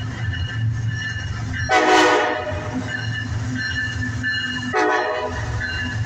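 CSX diesel locomotive's air horn sounding at a grade crossing: a blast about two seconds in and a shorter one near the end, over the steady low rumble of the locomotive.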